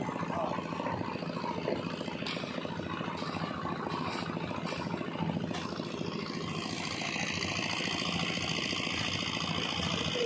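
Kobelco excavator's diesel engine running steadily, with a few light clicks in the middle and a higher hiss building over the last few seconds.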